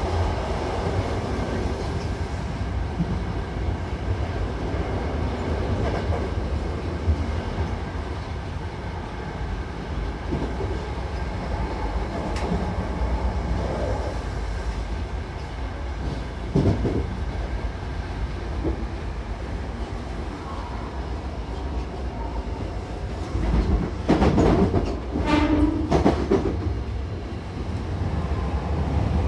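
Hankyu commuter train running between stations, heard inside the passenger car: a steady low rumble of wheels on rail and running gear. Near the end there are two louder stretches of noise.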